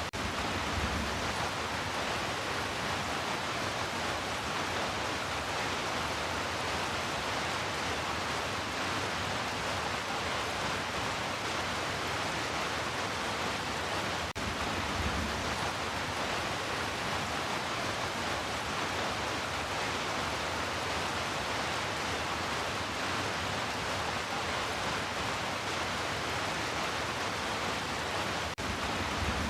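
Heavy rain falling in a steady, even hiss, with a brief dropout about halfway through and another near the end.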